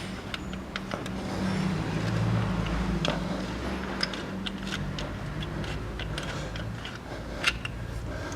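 Hand tools clicking and tapping on metal while the belt-tensioner bolts are undone, as scattered irregular clicks over a steady low hum.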